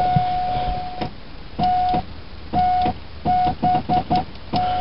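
Dashboard warning buzzer of a 1987 Ford Escort diesel. It sounds one steady tone for about a second, then stutters on and off in short uneven bursts with a click at each. The key is being worked on a battery too flat to crank the engine.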